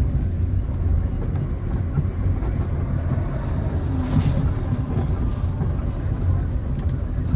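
Steady low rumble of a car being driven, engine and tyre noise on the road, with a brief rush of noise about four seconds in.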